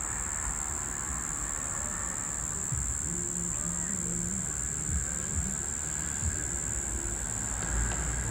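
Brown bunyip cicada (Tamasa tristigma) calling: a steady, unbroken high-pitched drone. A low rumble runs underneath.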